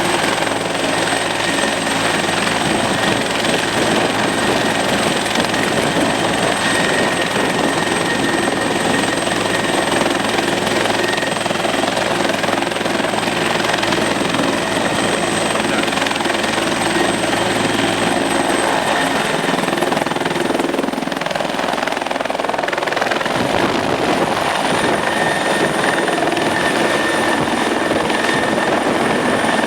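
Helicopter running loudly: a steady rush with a high turbine whine over it. The low humming tones under it drop away about three-quarters of the way through.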